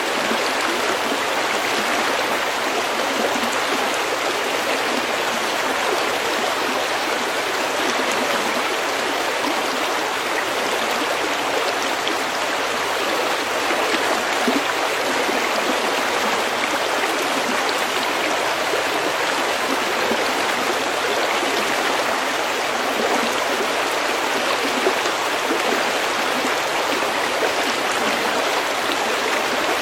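A stream flowing over pebbles: a steady, even rush of water with no single drips or splashes standing out.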